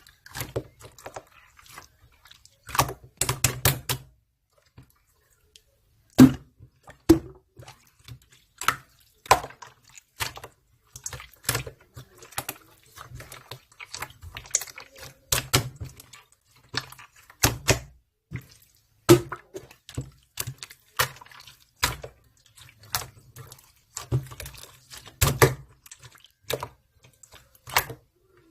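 Pink clear slime being worked by hand, giving irregular sharp clicks and pops, with a short quiet pause about five seconds in.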